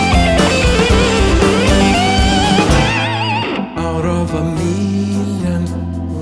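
Instrumental prog-rock passage: a lead guitar plays a melody with wide vibrato over bass and drums. About three and a half seconds in, the full band drops out and leaves a quieter, sustained backing.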